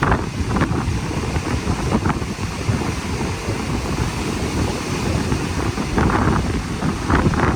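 Strong wind buffeting the microphone, an unsteady low rush with gusts rising and falling.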